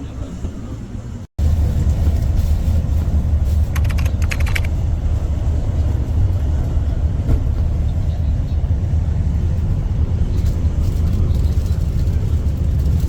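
Steady low rumble of a road vehicle running, starting abruptly about a second in, with a few short bursts of clicking.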